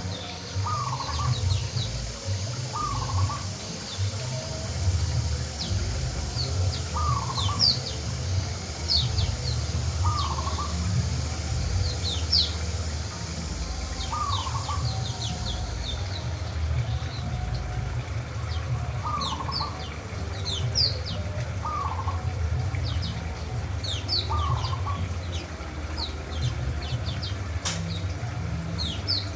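Wild white-eyes (pleci) chirping: many short, thin, high chirps scattered throughout, with a lower call repeating every second or two and a steady low rumble underneath.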